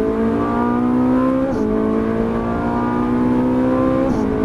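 Ferrari 458 Italia's 4.5-litre V8 accelerating hard under full throttle, its note climbing steadily through the revs. Two quick upshifts, about a second and a half in and again near the end, each drop the pitch at once before it starts climbing again.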